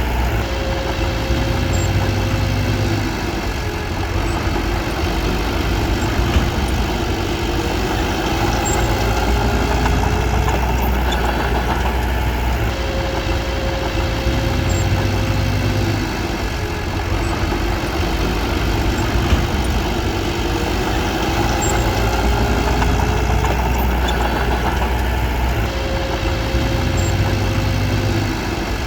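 Komatsu D21P bulldozer's diesel engine running steadily, its note shifting in a repeating cycle about every twelve seconds as it works.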